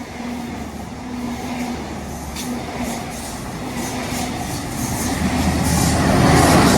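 Locomotive-hauled Pullman charter train approaching and passing, its engine humming steadily and its wheels clicking over the rails, growing louder to a peak near the end.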